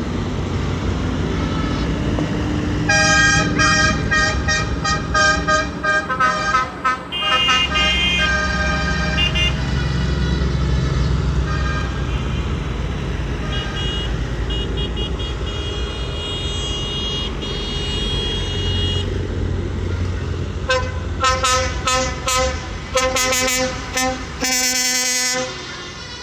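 Tractor engines rumbling steadily while horns sound repeatedly, in runs of rapid short toots and some longer held notes.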